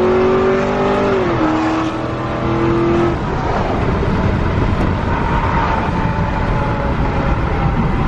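Supercharged V8 of a 650 whp Cadillac CTS-V held at high revs with a steady note that dips briefly about a second in. About three seconds in the note breaks off into a rougher, noisy engine rumble with a faint, slowly falling whine.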